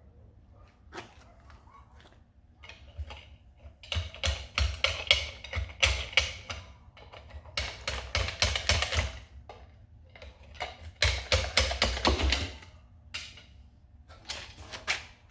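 Hand tools working on an engine: three bursts of rapid clicking and clanking, each about two seconds long, with scattered single clicks between them.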